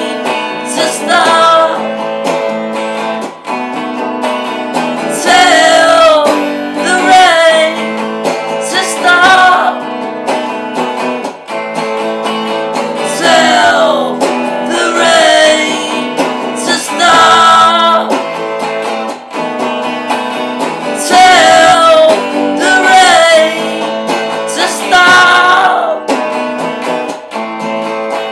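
Acoustic guitar playing a song, with a voice singing gliding, wordless phrases over it about every two seconds.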